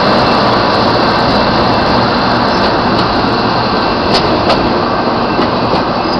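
Rail grinder train rolling past: steady, loud noise of its tank cars and grinding cars running on the rails, with a couple of sharp clicks about four seconds in.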